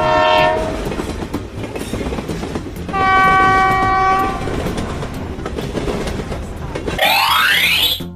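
Train running on the rails with a steady rumble and clickety-clack, sounding its horn twice: a short blast at the start and a longer, steady blast about three seconds in. Near the end a rising tone climbs quickly, then the sound cuts off.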